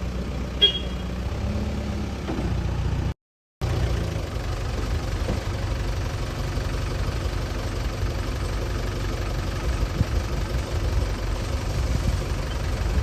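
JCB 3DX backhoe loader's diesel engine idling steadily, with a short metallic ping about half a second in. The sound cuts out completely for a moment just after three seconds.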